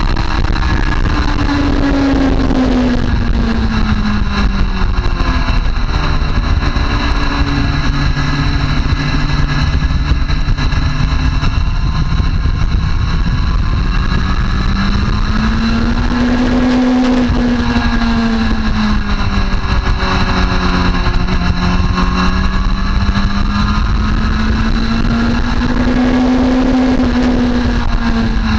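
Motorcycle engine running on a race track under constant load, its pitch rising and falling in slow sweeps as the revs change through the corners, over a steady rush of wind noise.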